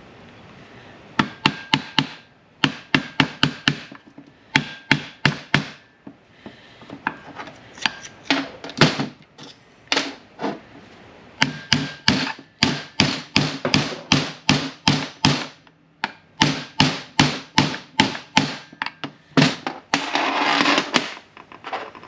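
Hammer tapping a part of a manual transmission shift tower into place, in quick runs of sharp strikes about three or four a second with short pauses between runs. Near the end there is a short stretch of scraping.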